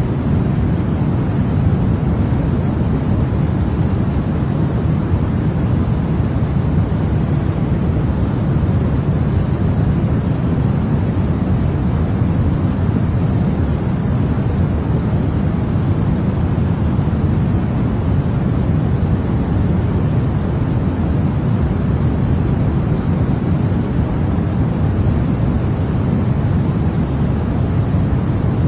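Continuous sleep noise for babies, sold as white noise but weighted toward the low end: a steady, deep, even rushing hiss that never changes.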